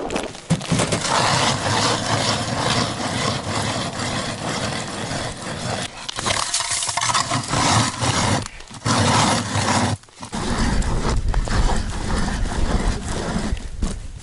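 Ice auger cutting into thick lake ice: continuous scraping and crunching, with short breaks about six, nine and ten seconds in.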